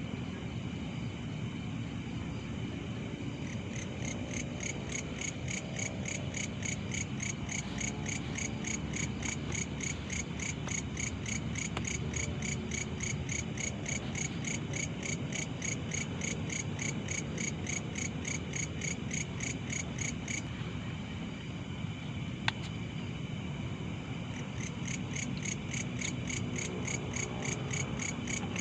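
Night insects calling: a steady high trill with a fast, even pulsing chirp over it that stops about two-thirds of the way through and starts again near the end, over a low background hiss. One sharp click near the end.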